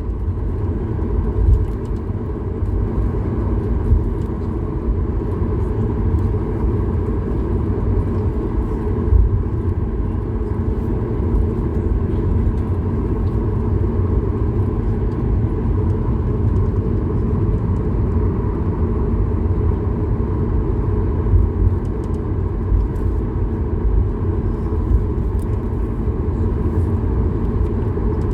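Steady cabin noise of a Boeing 737-8200 MAX with its CFM LEAP-1B engines running: a deep, even rumble with a faint steady hum on top.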